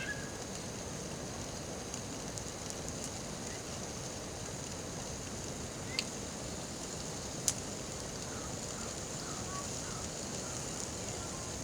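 Campfire crackling steadily, with two sharp pops about six and seven and a half seconds in.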